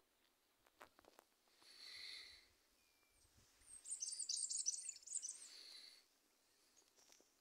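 Wild birds calling: a high call about two seconds in, then a louder, rapid, high chattering song for about a second and a half, and a shorter call just after. A few faint clicks come about a second in.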